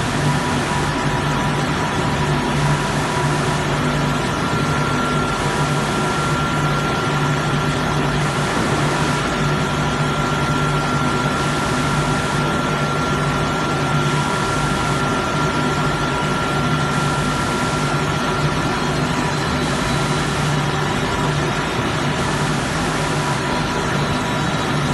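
Vertical automatic Low-E glass washing machine running: a steady mechanical hum with a few constant tones over a broad hiss, the high hiss dipping and returning in a regular pulse about every two seconds.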